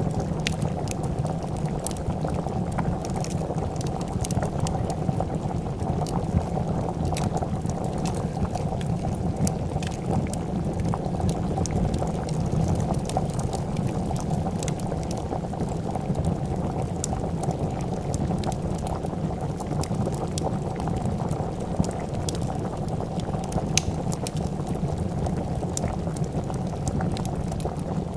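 A pot of soup bubbling at a steady boil, with scattered sharp crackles and pops from a wood fire over it.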